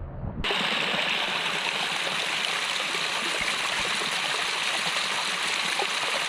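Steady rush of running water, like a stream or small cascade, starting abruptly about half a second in.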